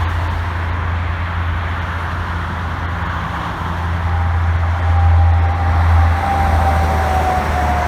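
Heavy diesel truck engine running with a steady low drone, and a thin whistle that comes in about halfway through and slowly drops in pitch.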